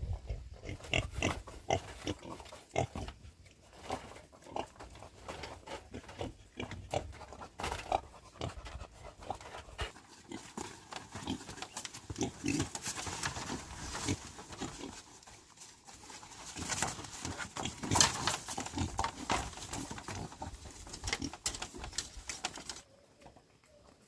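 Pigs grunting and calling, among many irregular short knocks and rustles; the sounds get busier in the second half and stop abruptly near the end.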